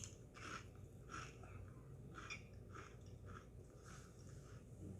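A person faintly chewing a crunchy ghost pepper chip, about two crunching chews a second.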